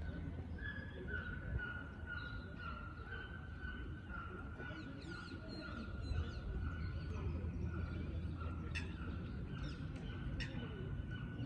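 Birds calling: a steady run of short, repeated notes, with quicker high chirps joining partway through, over a low rumble.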